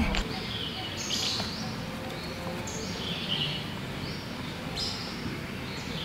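Birds calling, short high whistled notes repeating about once a second over a steady outdoor background hiss.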